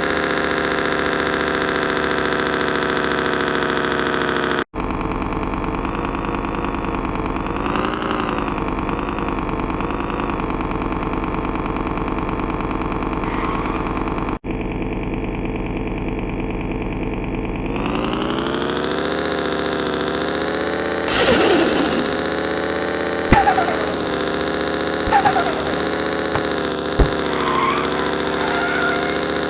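Car engine running steadily, broken twice by abrupt cuts. Later its pitch rises as it revs up and holds higher, with a few sharp knocks or pops over it.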